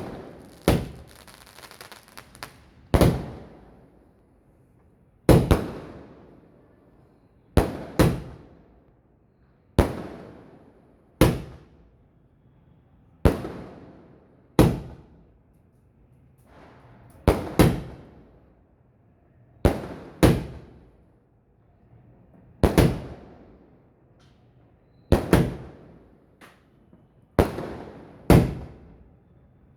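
Multi-shot aerial fireworks cake firing: a sharp bang every one to two and a half seconds, some coming in quick pairs, each followed by a trailing echo.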